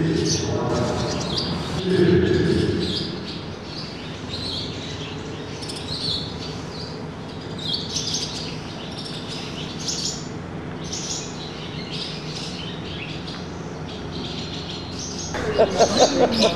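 Small birds chirping: many short, high chirps repeating irregularly throughout. A low murmur sits under the first few seconds, and a short run of pulsed, falling voice-like sounds comes near the end.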